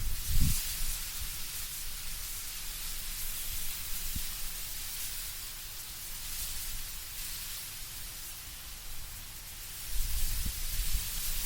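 Wind through autumn trees: a steady high hiss of rustling leaves, with a low rumbling gust about half a second in and another building near the end.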